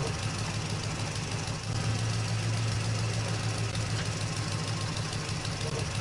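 A vehicle engine idling with a steady low rumble, as a cartoon sound effect.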